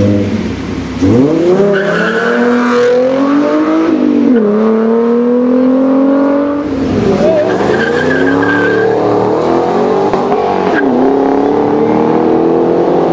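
Ford Mustang V8 accelerating hard through the gears. The engine note climbs, drops sharply at each upshift and climbs again, about three times, with a short high-pitched tyre squeal twice along the way.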